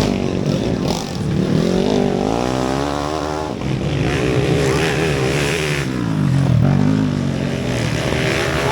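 Underbone motorcycles racing, several engines at once, their pitch rising and falling over and over as the riders work the throttle.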